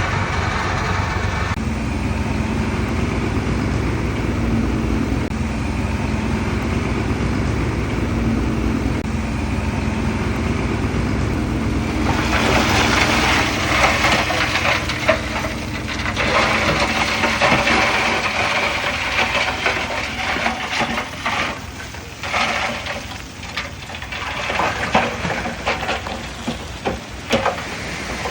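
Heavy diesel earthmoving machinery running steadily. About twelve seconds in, a rough scraping and crackling noise joins the engine and carries on.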